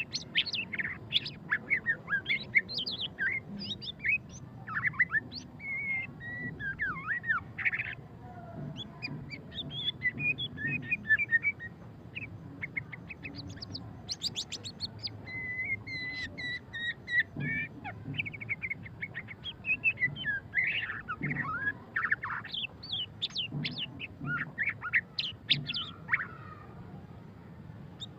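White-rumped shama singing: a fast, varied, continuous run of whistles, chattering notes and rapid trills that rise and fall in pitch, with brief pauses between phrases.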